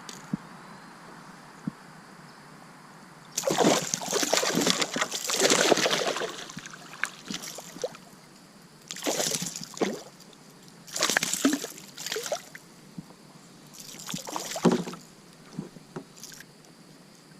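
Water splashing and sloshing at a kayak in four irregular bursts, the longest about three seconds in, with quieter drips between.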